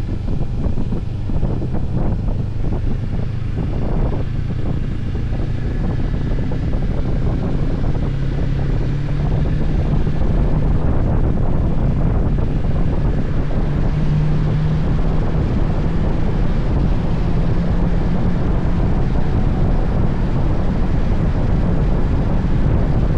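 Motorcycle ride: wind buffeting the microphone over the low, steady hum of the engine, whose pitch shifts slightly as the speed changes.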